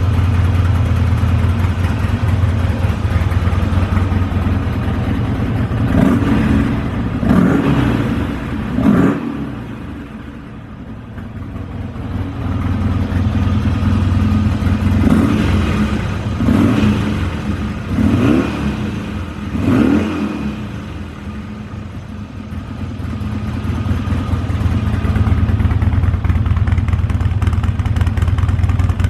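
Harley-Davidson XR1200's air-cooled V-twin running through a Termignoni aftermarket muffler, idling with sharp throttle blips: three revs about six seconds in and four more about halfway through, settling back to idle between them.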